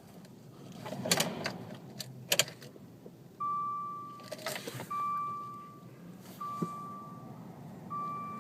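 2013 Dodge Dart's dashboard warning chime sounding four times, about every one and a half seconds, each a single fading tone. Before it come a few sharp clicks and rattles of handling in the cabin.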